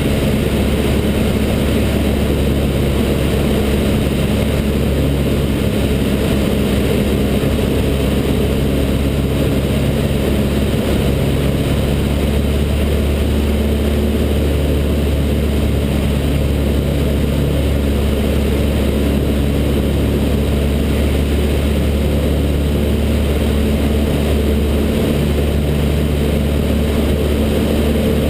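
The Cessna 152's four-cylinder Lycoming piston engine and propeller in a steady drone, with no change in power.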